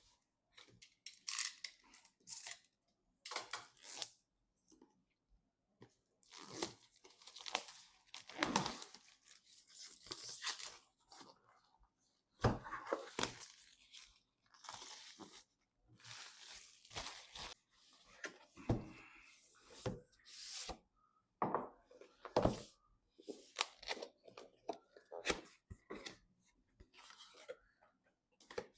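PC part packaging being torn open and handled, with irregular stretches of tearing and crinkling broken by short clicks and handling knocks.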